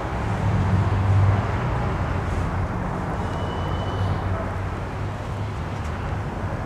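Steady low rumble of road traffic from passing vehicles.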